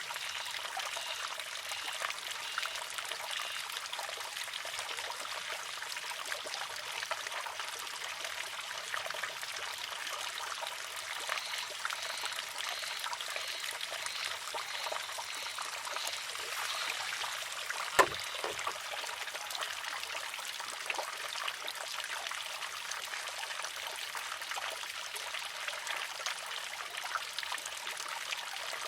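Water trickling steadily into a wooden shishi-odoshi. About two-thirds of the way through, the water-filled arm tips and strikes its rock with a single sharp clack.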